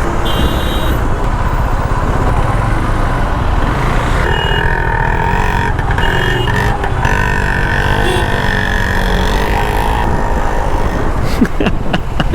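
Motorcycle riding noise from a 2019 KTM Duke 390 in traffic: wind buffeting the microphone over steady engine and road rumble. A long horn-like tone from another vehicle sounds from about four to seven seconds.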